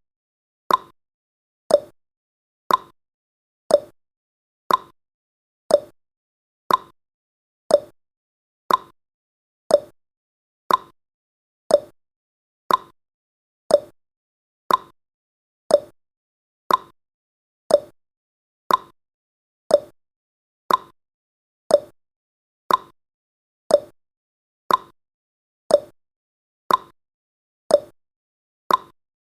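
Clock-style tick-tock sound effect counting off the seconds of a countdown timer: one short tick each second, alternating higher and lower in pitch.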